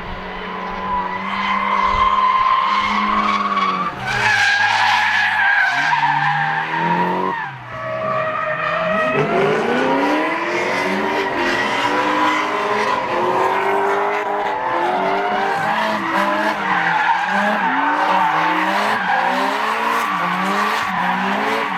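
Drift car engine revving hard, its pitch rising and falling over and over as the throttle is worked, over a constant tyre squeal from cars sliding through the corner. The engine note drops briefly about seven seconds in, then climbs and pulses in quick rev swings about once a second.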